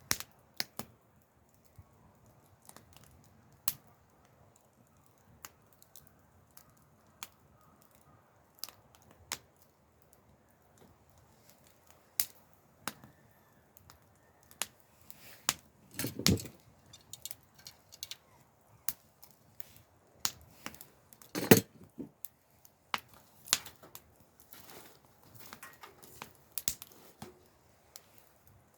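Wood campfire crackling, with irregular sharp snaps and pops. Two louder, duller knocks come in, about midway and again later on.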